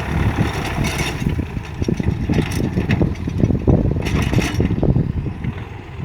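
Hinomoto N279 compact tractor's diesel engine running, a steady low chugging with short metallic rattles about a second, two and a half and four seconds in.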